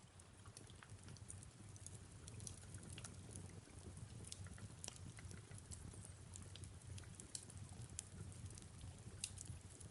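Fireplace crackling softly, with irregular sharp snaps and pops over a low rumble, with a gentle hiss of rain behind it.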